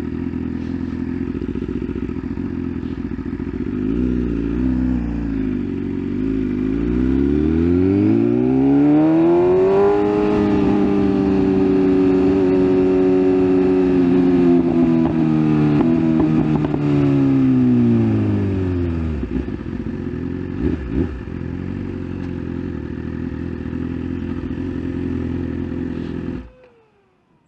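BMW S1000RR's inline-four engine running at low revs, rising in pitch about seven seconds in, holding steady, then falling back to a low, steady note around nineteen seconds. The engine cuts off suddenly near the end, as the bike is switched off at the end of the ride.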